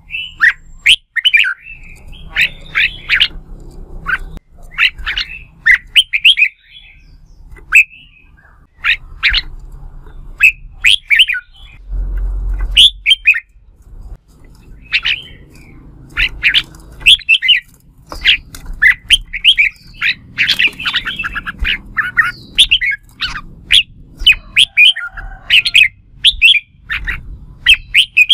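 Red-whiskered bulbuls in competitive song: a rapid, continuous run of short, loud whistled and chattering phrases with barely a pause.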